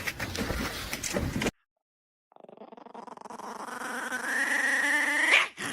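A dog whining in one long drawn-out note that slowly rises in pitch and grows louder, then breaks off abruptly. Before it come a second and a half of rustling and knocks.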